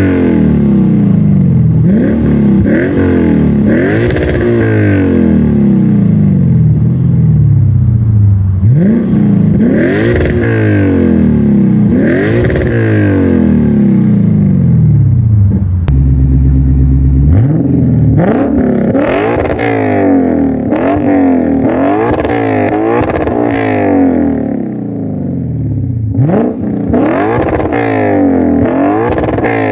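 Lexus IS500's 5.0-litre V8 revved again and again through an aftermarket cat-back exhaust, each rev rising and falling back. About halfway through the sound changes, with a short steady idle and then quicker, sharper revs: the exhaust valves going from closed to open.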